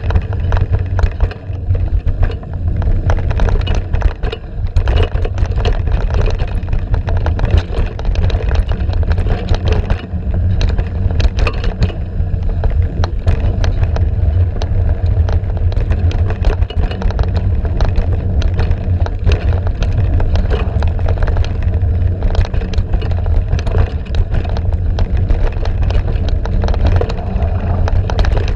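Mountain bike descending a dirt trail: steady wind rumble on the microphone, with constant rattling and clattering from the bike and tyres over rough ground.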